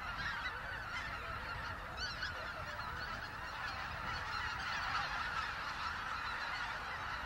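A large flock of greater white-fronted geese calling all at once: a dense, steady chorus of many overlapping honks.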